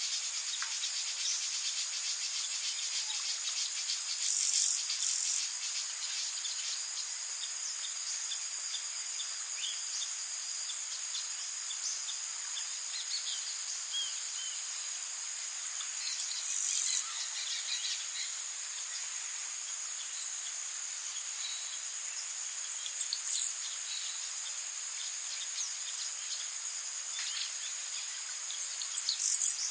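Steady, high-pitched chorus of rainforest insects, crickets among them, over a soft hiss of rain. Five brief, louder high buzzes break in: two close together about four seconds in, then single ones spread through the rest. Faint bird chirps come now and then.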